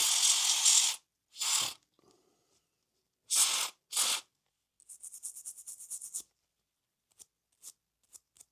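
Small model-railway gears being cleaned: an aerosol degreaser hisses in a burst of about a second, then in three shorter bursts, followed by a quick run of light scrubbing strokes about a second long and a few small clicks.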